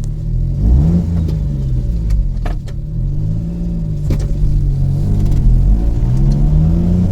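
The 660 cc three-cylinder engine of a 2000 Suzuki Carry kei truck, revved up and let back down repeatedly, a blip every second or two, with a few light clicks in between.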